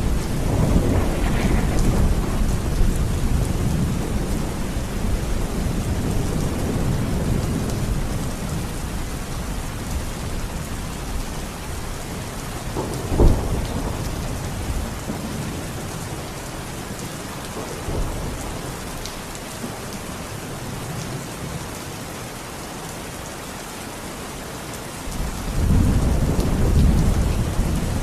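Steady rain with rolling thunder: a low rumble fades over the first several seconds, a sharper thunderclap cracks about halfway through, and the rumbling swells again near the end.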